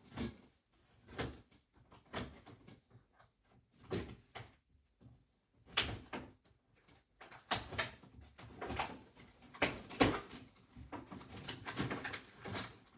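Small hard plastic toy pieces and packaging being handled: irregular clicks and knocks as they are picked up, opened and set down, busier in the second half.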